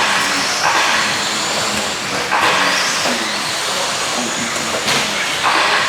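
Electric 1/10-scale RC stadium trucks racing on the track, their 13.5-turn brushless motors whining along with tyre noise, swelling and fading as the trucks pass.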